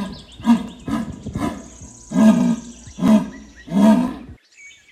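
Black jaguar calling: a series of about six rough, deep grunting roars spaced less than a second apart.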